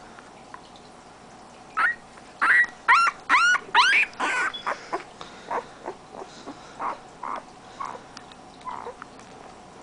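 Siberian husky puppy giving a run of short, high-pitched yips and whimpers, starting about two seconds in. The first few are the loudest, and quieter, shorter yips follow until near the end.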